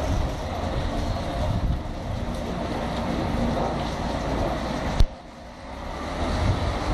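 Steady rumble of a narrow-gauge train running along the track, heard from aboard an open wagon. A single sharp click about five seconds in, after which the sound briefly drops and then builds back up.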